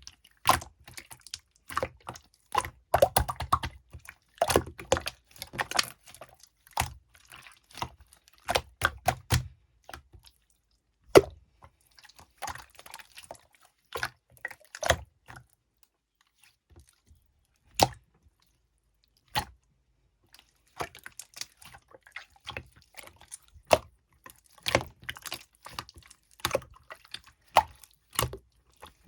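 Clear slime being squeezed, pressed and stretched by hand: irregular wet clicks, pops and squishes, with a lull of a few seconds about halfway through.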